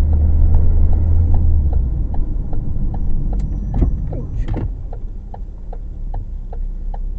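Car running, a heavy low rumble of engine and road noise as heard from inside the vehicle, with a steady ticking about two or three times a second.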